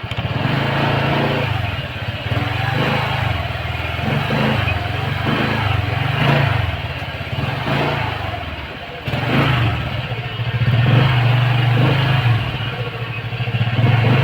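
Motorcycle engine running while riding, getting louder sharply at the start, its revs rising and falling again and again through gear changes and throttle.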